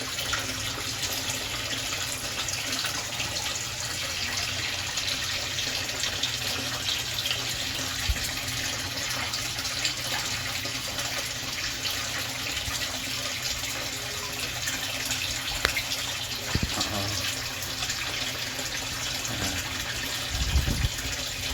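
Steady running, splashing water at a koi pond, with a few low thumps near the end.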